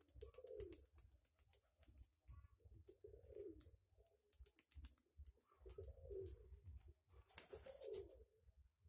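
Nikolaev pigeons cooing faintly, a low coo phrase repeated four times about every two to three seconds, with scattered small clicks in between.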